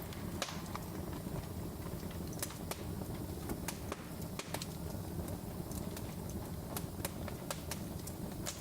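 Wood fire burning in a fireplace: a steady low rumble of flames with sharp, irregular crackles and pops, one or two a second.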